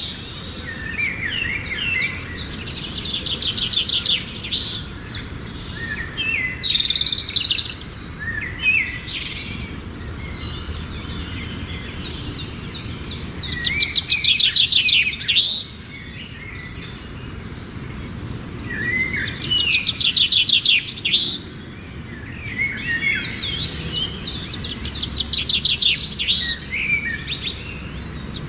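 Songbirds singing in repeated phrases of rapid high trills and chirps, a new phrase every few seconds, over a steady low background rumble.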